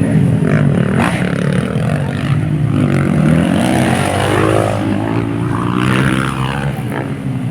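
Several motocross bikes racing, their engines revving up and down with the gear changes, the pitch rising and falling as they pass.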